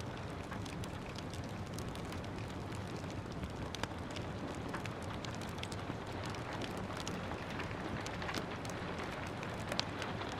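Steady hiss of gentle rain with a wood fire crackling over it: scattered sharp pops and snaps, one louder pop near the end.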